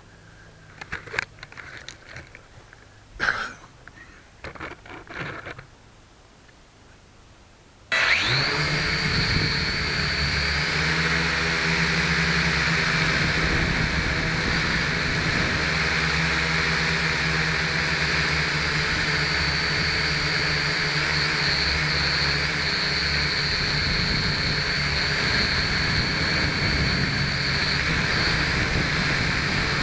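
A few faint handling knocks and clicks, then about eight seconds in the small electric motors of a V929 mini quadcopter spin up abruptly into a steady high whine over a buzzing hum, heard through the camera mounted on it.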